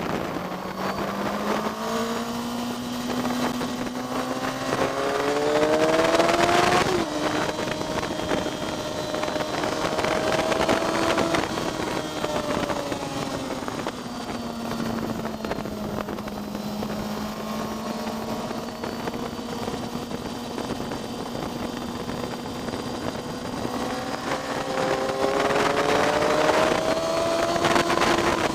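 Vehicle engine heard onboard at speed on a race track. Its pitch climbs steadily under acceleration for about seven seconds, eases off, then sags slowly through a long stretch before climbing again near the end.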